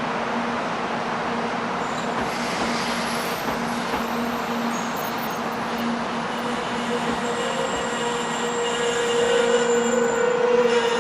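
700 series Shinkansen train running at the platform with a steady electrical hum; its whine grows louder about two-thirds of the way in.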